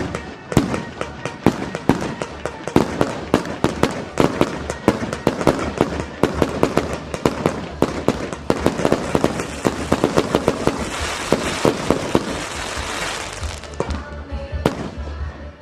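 Fireworks show with mortar shells and multi-shot volleys firing in rapid succession, several sharp bangs a second, giving way to a dense crackling hiss about eleven seconds in, then a few scattered bangs.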